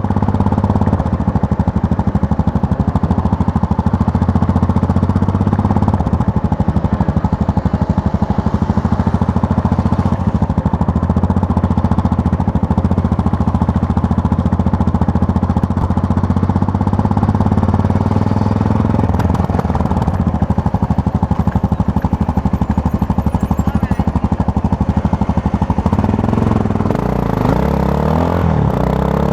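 Yamaha MT-03 motorcycle engine running under way, its note steady for most of the time. Near the end the pitch rises and falls several times.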